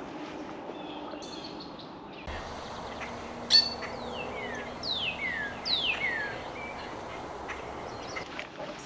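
A bird calling near a pond: a sharp short note, then three clear whistled calls, each sliding down in pitch in two steps.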